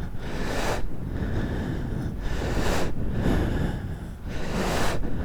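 Wind rushing over the microphone of a paramotor gliding in with its engine dead, swelling three times.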